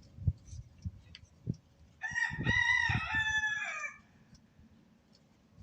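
A rooster crowing once, a high call of about two seconds in a few linked parts, with a few faint knocks before it.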